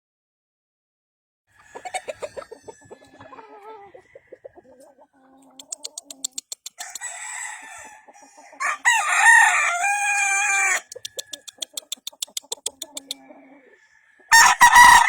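Gamefowl roosters crowing, with rapid clucking calls between the crows. A long, loud crow comes a little past the middle, and another loud crow starts near the end.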